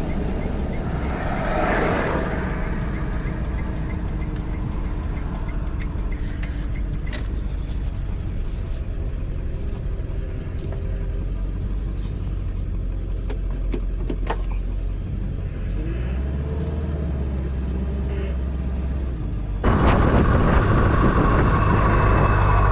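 Ford Super Duty's 7.3 Powerstroke turbo-diesel V8 running steadily as the truck drives. Near the end the sound cuts abruptly to the same engine idling, louder, with a diesel clatter.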